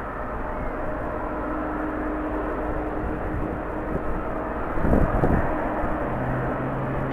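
Jet airliner engines running at a distance across the airfield, with strong wind buffeting the microphone. A louder surge of wind noise comes about five seconds in, and a low steady hum joins near the end.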